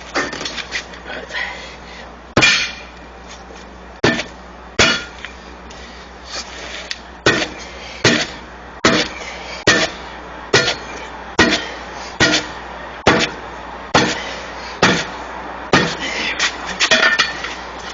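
Hammer blows while working a truck tire's bead off its rim by hand: a few scattered strikes, then from about seven seconds in a steady run of about one sharp strike every 0.8 seconds. The rubber is hard and stiff from cool weather, so the bead has to be beaten loose.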